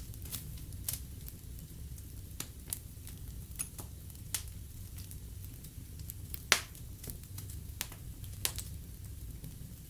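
Fireplace fire crackling, with irregular sharp pops and snaps over a low steady rumble. The loudest pop comes about six and a half seconds in.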